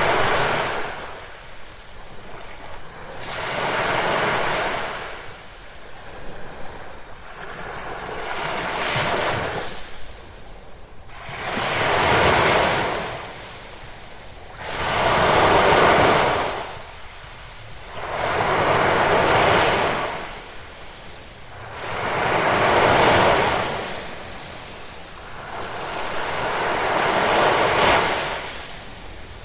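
Ocean waves breaking on a shore: a rush of surf that swells and fades about every three to four seconds, with a steady wash between breakers.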